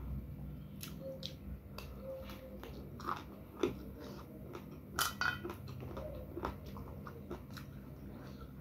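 Close-up chewing of a mouthful of rice and raw eggplant, with many short crunching bites; the sharpest crunches come about three and a half and five seconds in.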